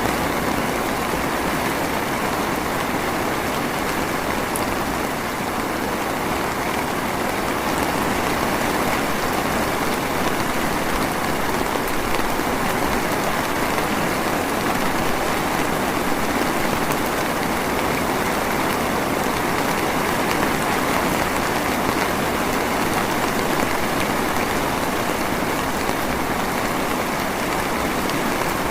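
Drizzling rain falling steadily: an even, unbroken patter of drops.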